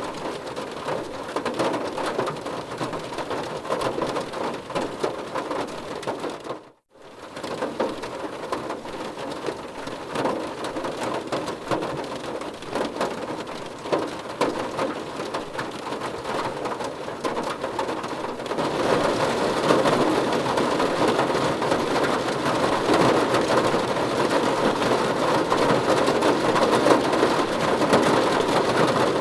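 Steady rainfall. The sound cuts out completely for a moment about seven seconds in, then resumes. From about two-thirds of the way through it grows louder and denser.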